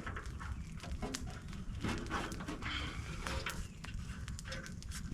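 Small portable tent stove being handled and set in place: irregular metallic clicks, knocks and rustling, with a low rumble of handling noise.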